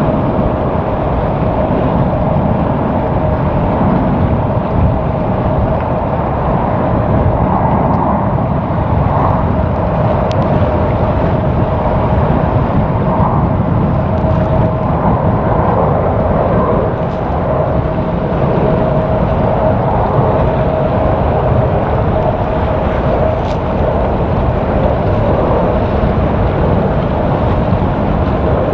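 Steady jet engine noise with a constant whine, under a low rumble of wind buffeting the microphone.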